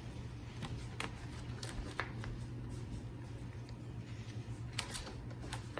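Handling of paper and packaging: soft rustling with several light taps and clicks, over a low steady hum.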